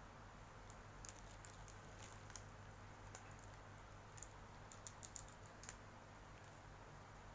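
Faint, scattered light clicks and taps of small plastic pieces being handled, over a low steady hum, with a quick run of clicks a little past the middle.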